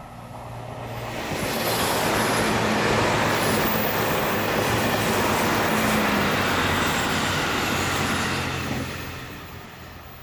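A passenger express train passing close by at speed: the rush and rumble of its wheels on the rails swells over about two seconds, holds loud while the cars go by, then fades near the end as it moves away.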